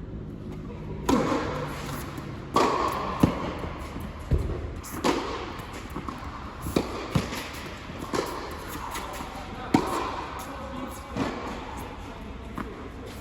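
Tennis rally: a ball struck back and forth by racquets and bouncing on the court, giving a dozen or so sharp hits at irregular intervals.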